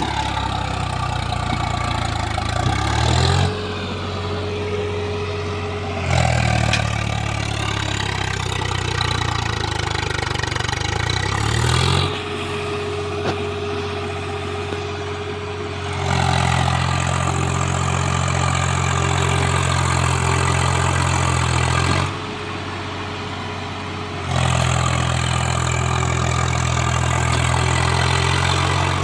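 Diesel tractor engine running hard while pulling a loaded trolley, its note rising and falling as the load changes. Louder stretches alternate every few seconds with quieter ones that carry a steady high whine.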